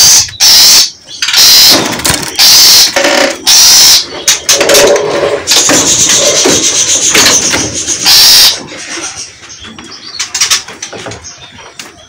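Birds in an aviary calling in loud, harsh, distorted bursts. After about eight and a half seconds they give way to quieter scattered clicks and rustles.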